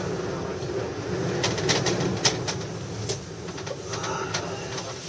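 Ski gondola cabin in strong wind: a steady low hum and moaning, with scattered sharp rattles and clicks from the cabin.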